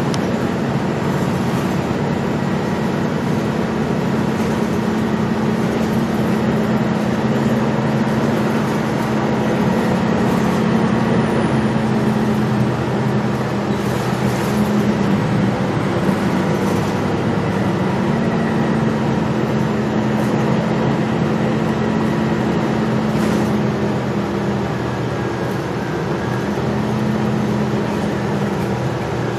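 Gillig Low Floor transit bus running under way, its engine making a steady hum that rises and falls slightly in pitch a few times, with road noise underneath and no HVAC fan running.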